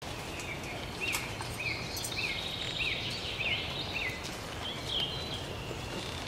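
Woodland ambience: a bird repeating a short rising-and-falling note about every half second, over a steady hiss, with a few faint clicks.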